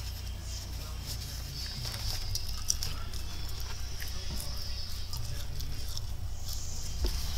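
A person chewing fried chicken and fries close to the microphone, with small scattered clicks from chewing and the paper box being handled, over a steady low hum.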